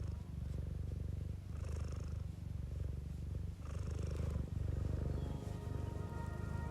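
Domestic cat purring close to the microphone, the low purr pulsing in breath cycles of about a second to a second and a half, with a soft breath heard twice.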